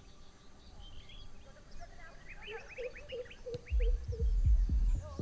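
Birds chirping, with quick high chirps and a run of short low repeated notes. About two-thirds of the way through, a deep, thumping bass beat of music comes in and becomes the loudest sound.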